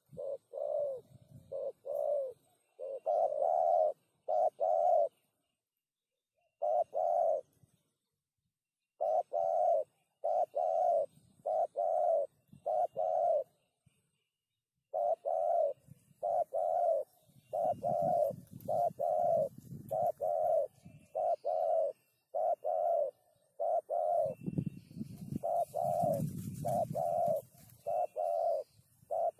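Spotted dove (tekukur) cooing: short, low coo notes repeated in phrases of several notes, with pauses of one to two seconds between phrases. A low rumble sits under the coos in the middle and again near the end.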